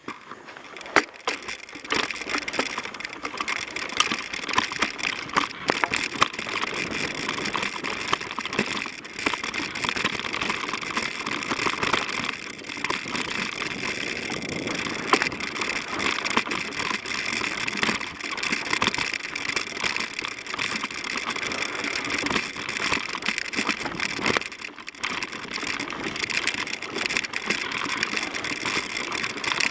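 Mountain bike ridden fast along a dirt singletrack trail: steady rushing tyre noise with constant clicking and rattling from the bike over roots and bumps.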